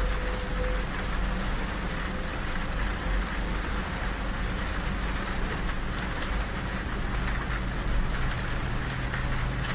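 Steady rain falling on a train carriage's window and roof over the low, steady rumble of the moving train.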